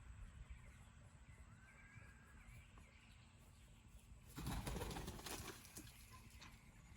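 Peafowl wings flapping in a burst lasting about a second, a little over halfway through, as a bird flies up to roost. Faint bird chirps come before it.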